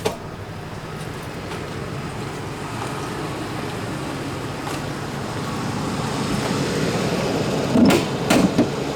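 A vehicle engine running steadily, a low hum that slowly grows louder, with a few faint clicks and a couple of short louder sounds near the end.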